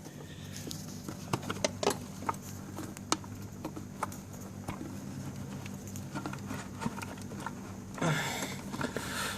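Scattered light clicks and knocks of hands pulling the loosened intake hose between the air filter and throttle body of a Suzuki Burgman scooter out of the way, with a louder rustle near the end, over a steady low hum.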